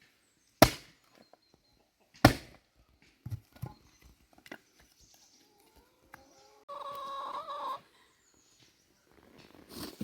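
Two sharp knocks, then a few weaker ones, followed by a chicken's call lasting about a second.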